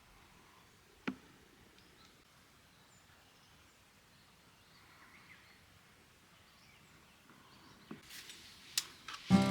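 Quiet outdoor ambience with a few faint bird chirps, a single sharp click about a second in, and several clicks and knocks near the end.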